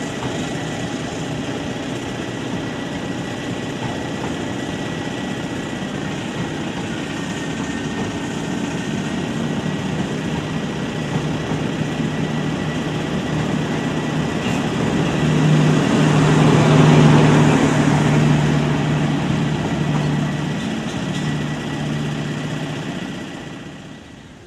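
Passenger train coaches rolling past on the track, a steady rumbling train noise with a low hum that grows louder about two-thirds of the way through and then fades near the end.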